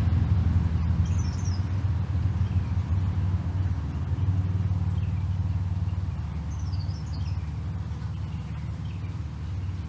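A small bird chirping in short high phrases, once about a second in and again near the middle, over a low steady rumble that slowly fades away.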